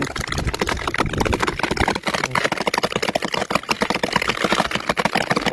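Rock cracking and popping under stress: a dense, rapid, irregular crackle.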